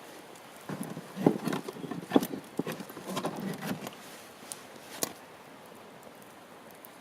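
Campfire wood knocking and snapping: a flurry of irregular knocks and crackles for about three seconds, then a single sharp pop about five seconds in.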